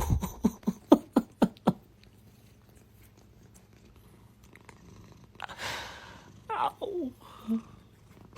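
A cat giving a quick run of short calls, about four a second, for the first two seconds. After a quieter stretch come a breathy sound and a few more short, falling calls near the end.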